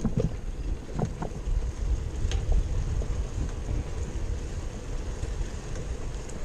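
Wind rushing over the microphone and the low rumble of bicycle tyres on a paved trail while riding, with a few light clicks from the bike.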